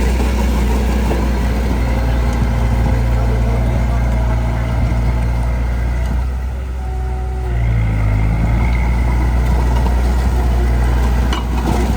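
Heavy diesel engine of earthmoving machinery running steadily. About six seconds in it briefly quietens, then comes back up at a changed pitch, as with a change of throttle or load.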